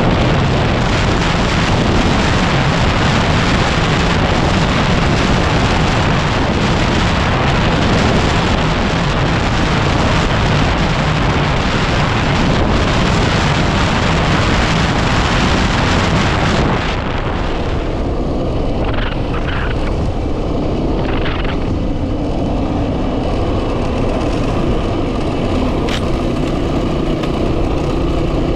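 Heavy wind noise buffeting the microphone while riding a Yamaha WR250R, a single-cylinder four-stroke trail bike. About two-thirds of the way in the wind noise drops away suddenly and the engine's steady hum comes through as the bike slows.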